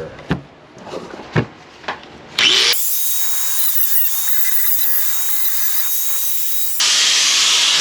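A few knocks and clicks, then about two and a half seconds in a grinder spins up with a rising whine and cuts into a weld, a loud steady grinding noise that gets louder near the end.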